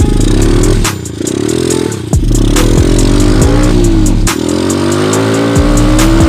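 A 125cc dirt bike engine revs up and drops back repeatedly as it is ridden, mixed with electronic music that has a steady drum beat and bass.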